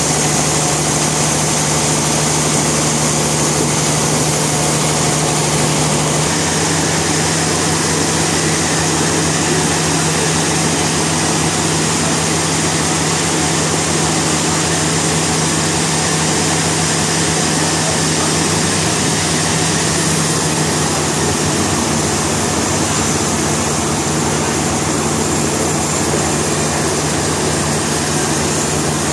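Sawmill machinery running steadily: a constant engine-like hum under dense mechanical noise, shifting slightly about six seconds in and again around twenty seconds.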